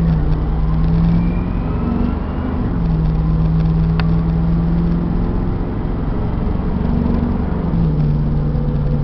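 A 1994 Ford F600 box truck's 7.0-litre V8 running steadily under way as the truck is driven. The engine note drops and rises a few times, and there is a single sharp click about four seconds in.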